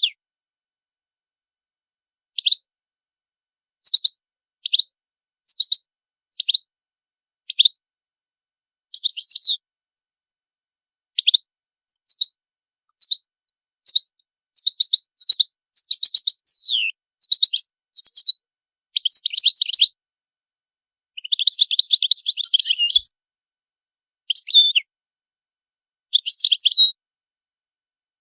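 European goldfinch singing: short, high twittering phrases separated by pauses, running into longer rapid trilled passages in the middle of the stretch.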